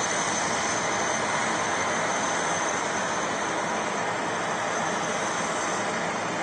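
Jet airliner's engines running steadily, a constant rushing noise with a thin high whine.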